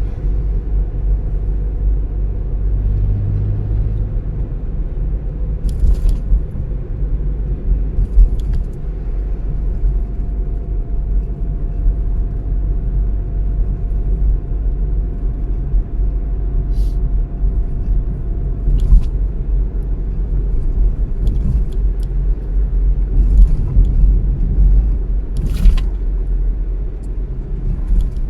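A car driving, with a steady deep road and engine rumble and tyre noise. A few short knocks come through, the strongest about three-quarters of the way in.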